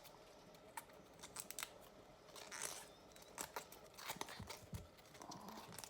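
Broccoli florets being broken off the stalk by hand: a scatter of small, crisp snaps and clicks, with a short rustle about halfway through.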